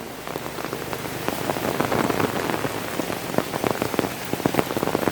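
Rain falling, a dense patter of many separate drops striking a surface, growing a little louder toward the middle.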